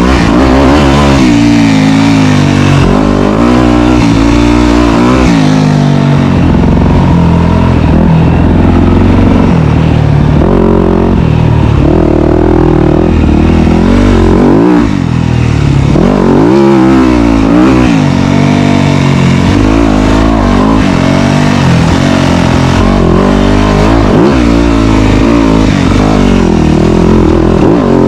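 Dirt bike engine running hard, revving up and down over and over as the throttle is worked, its pitch rising and falling every second or two.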